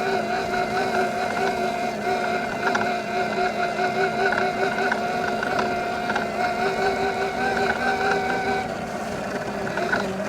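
Evoltrix X7 electric pit bike's 48 V mid-drive motor whining at a steady pitch while riding, over a rushing noise. The whine fades about nine seconds in.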